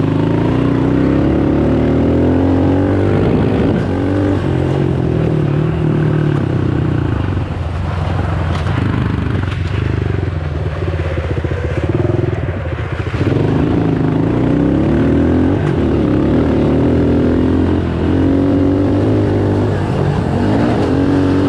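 Honda dirt bike engine running hard, its revs rising and falling as it is ridden, with a short dip about twelve seconds in.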